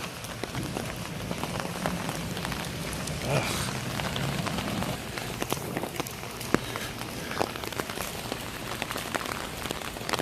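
Heavy rain falling steadily, with many sharp drop ticks splashing through it.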